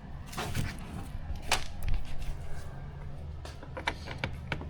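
Scattered clicks and knocks of small RC plane kit parts being handled while a wheel is fitted to the landing gear, one sharper knock about a second and a half in and a quick run of clicks near the end.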